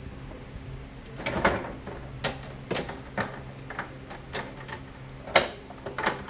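A series of about eight short knocks and clacks of household objects being handled, over a steady low hum.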